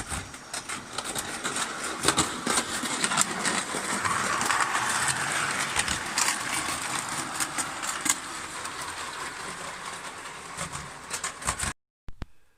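Electric-motored Hornby O gauge tinplate model locomotive running on three-rail track, a steady rattle with many sharp clicks. It grows louder toward the middle, fades away, and cuts off near the end.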